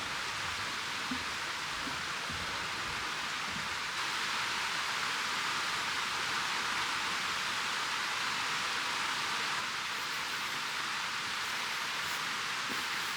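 Steady rushing of a mountain stream: an even hiss of flowing water, a little louder from about four seconds in.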